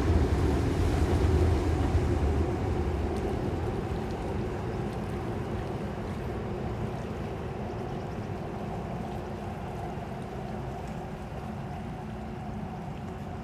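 A low vehicle rumble fades away over the first few seconds, over the steady wash of Han River water lapping.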